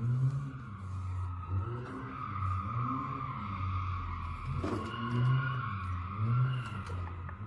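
A car's engine revving up and down about once a second over a continuous tyre squeal, with one short knock about halfway through.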